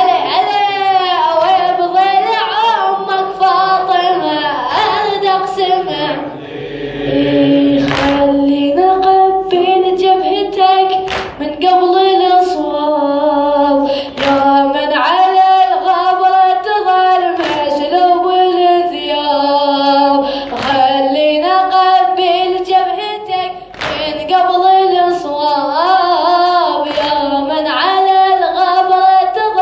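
Unaccompanied Arabic Husseini lament poem (latmiya) sung by a reciter in long held, ornamented lines, with other voices joining in. Sharp slaps land at a regular beat every few seconds under the singing.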